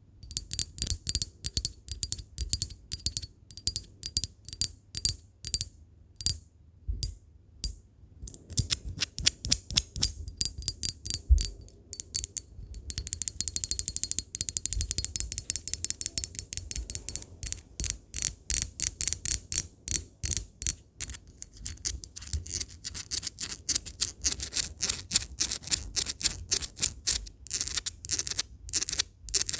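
Glass being tapped for ASMR: many quick, irregular taps, each with a short clear ring, spaced at first and then coming in fast flurries from about a third of the way in.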